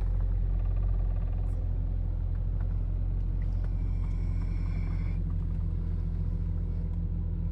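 A 1998 BMW 528i's straight-six engine idling steadily, still cold from a cold start. A faint high whine comes in about halfway through and stops after a second or so.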